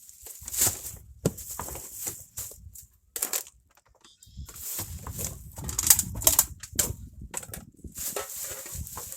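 Irregular clatter, scraping and rustling of debris and parts being handled and moved about in a pickup truck bed, with a run of sharp knocks and a low rumble about halfway through.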